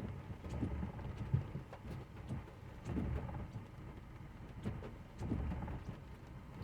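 Ford Raptor pickup truck driving off-road, a low uneven rumble that swells and fades every second or so.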